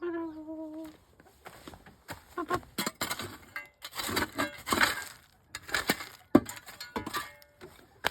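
A short pitched call at the start, then irregular scraping and crunching strokes with sharp clicks from about two seconds in: chicken droppings being scooped up off the ground.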